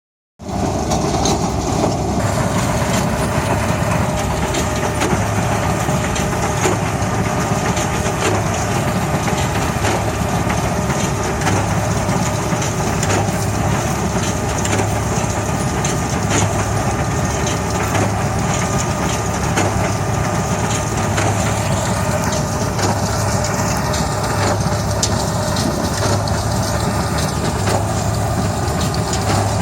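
SAME Buffalo 130 tractor running a Hesston 4700 big square baler: a steady engine drone under the crunching and clattering of the baler's working parts, with many irregular knocks.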